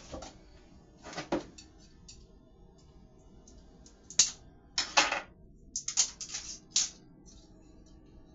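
Short clicks and clatters of kitchen items being handled: one brief cluster about a second in, then a busier run of sharp clicks between about four and seven seconds in.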